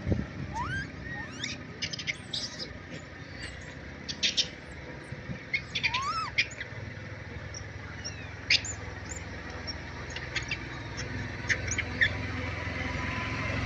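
Birds chirping: scattered short high chips and clicks, with two whistled calls, one rising in pitch about a second in and one arching up and down about six seconds in.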